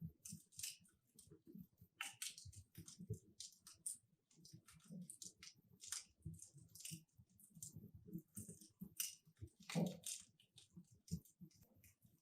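Wood fire crackling in a fireplace: burning logs giving faint, irregular snaps and pops, with a louder pop about ten seconds in.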